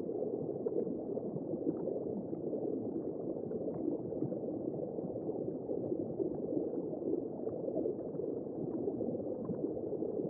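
Womb-sound white noise for lulling a newborn: a steady, dull whooshing rush with nothing high in it, unchanging throughout.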